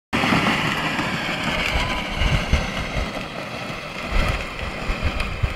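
Power Wheels Chevy Silverado ride-on toy truck running on a 24-volt conversion: its electric motors and plastic gearboxes whine as it drives, growing fainter. Irregular low rumbles of wind on the microphone run underneath.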